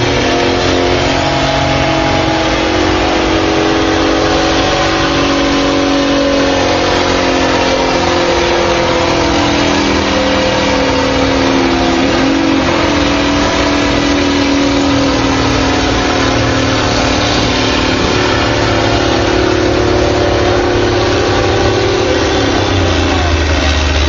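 Stock farm tractor engine running hard under load, pulling a weight-transfer sled in a tractor pull: a loud, steady drone whose pitch wavers and sags slightly as it goes.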